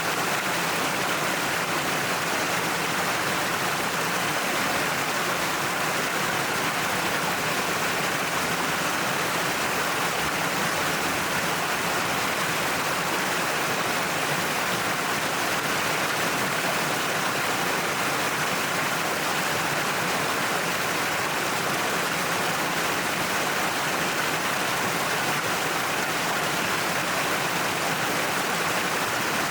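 Waterfall splashing down a cliff, a steady, even rush of water with no change in level.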